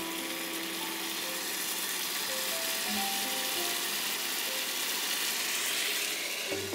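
Beef skewers sizzling in a nonstick frying pan over soft background music with held notes. Near the end a glass lid is set down on the pan with a clink.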